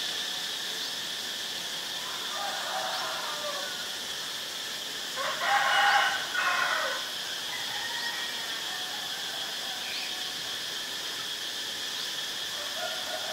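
A bird calls once, loudly, about five seconds in; the call lasts about a second and a half and comes in two parts. Fainter calls come a few seconds earlier and again near the end, over a steady high hiss.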